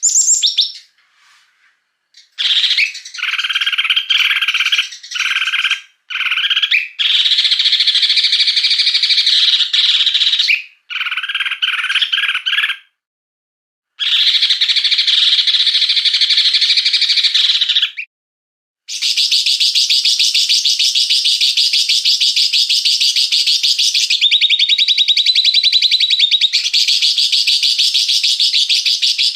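Small songbird singing harsh, rapid-fire trills and rattling note series. These are the rough 'tembakan' phrases used in masteran tutor recordings. Several bursts are cut off by abrupt short silences, then one long unbroken buzzy trill drops a step in pitch partway through.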